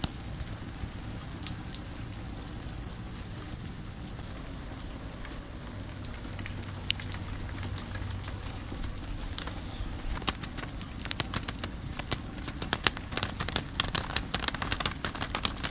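Steady rain falling, with sharp taps of individual raindrops that grow more frequent in the second half.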